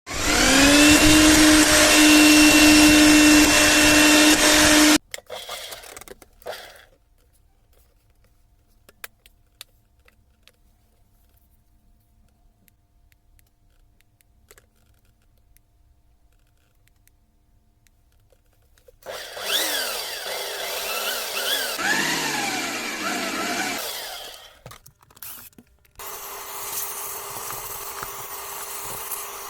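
An electric power tool's motor spins up with a rising whine, runs steadily for about five seconds, then cuts off. After a long quiet stretch with faint clicks, motor sound returns with its pitch sliding up and down, then settles into a steady hum with hiss.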